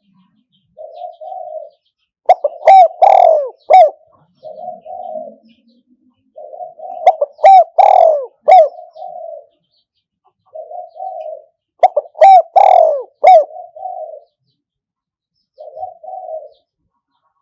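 Spotted dove cooing: a caged decoy calling to lure wild doves. It gives three loud phrases of short coos about four to five seconds apart, with fainter coos between them.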